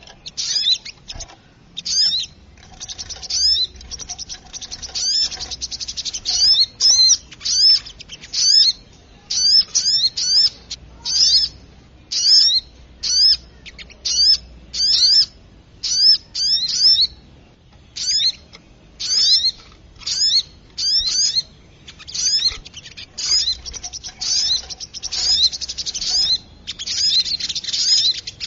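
Little spiderhunter calling excitedly: a run of sharp, high-pitched chirps, each burst a quick cluster of falling notes, repeated about once a second.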